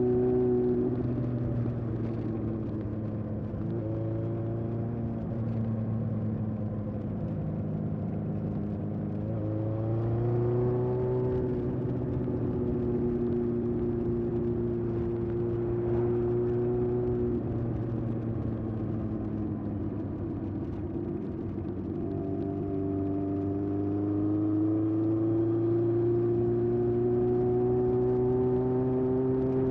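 1981 Honda CB750F's air-cooled inline-four running through a period Yoshimura muffler under way. The engine note climbs gradually in pitch several times as it pulls and drops back between the pulls.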